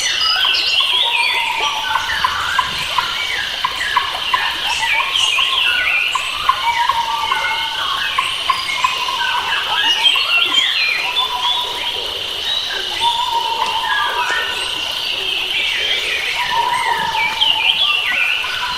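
A dense chorus of wild forest birds singing, with many overlapping quick chirps and whistled notes, over a steady high drone.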